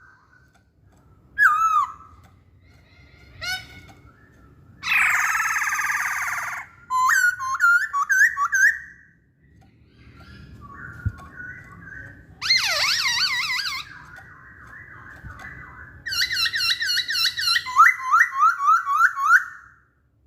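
Poksay Hongkong laughingthrush singing a varied song of loud whistled, swooping phrases broken by short pauses. A harsher, rasping phrase comes about five seconds in, and the song ends in a fast run of repeated rising-and-falling notes.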